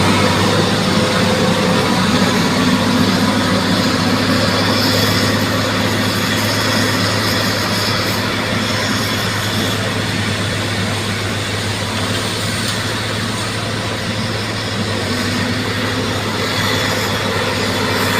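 Bulldozer's diesel engine running steadily under load with a deep, continuous hum; it eases off slightly about two-thirds through and picks up again near the end.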